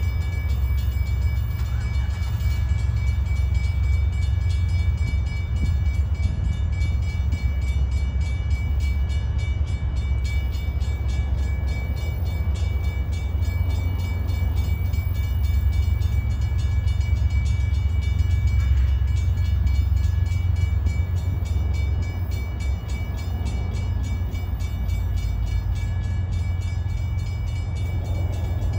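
Union Pacific diesel freight locomotives approaching slowly, their engines a steady low rumble that grows a little louder near the end. A grade crossing's warning bell rings rapidly and steadily over it.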